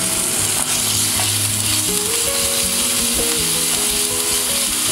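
Garlic, grated ginger and green chillies sizzling in hot oil in a non-stick frying pan: a steady, even hiss. Soft background music with slowly changing held notes runs underneath.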